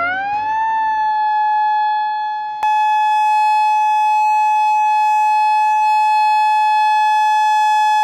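Mine blasting warning siren sounding before a dynamite blast: it winds up in pitch at the start, then holds one steady loud tone. A few seconds in, the tone changes abruptly to a cleaner steady note.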